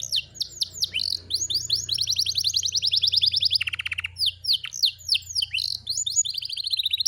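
Domestic canary singing a fast, continuous song of rapid trills and repeated sweeping notes, with a lower trill about halfway through.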